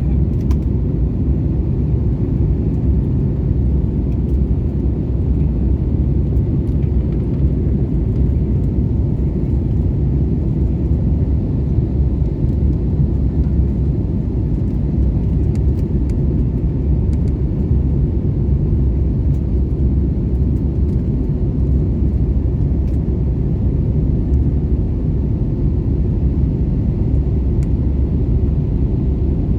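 Steady low rumble of an airliner's engines and airflow heard inside the cabin, during the climb and turn after takeoff.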